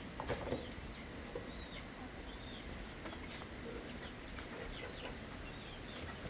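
Farmyard chickens clucking, with short high chirps recurring every second or so over a steady low background and a few light clicks.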